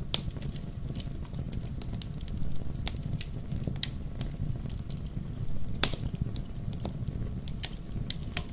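Wood fire crackling: scattered sharp pops and snaps over a steady low rumble, with one loud pop about six seconds in.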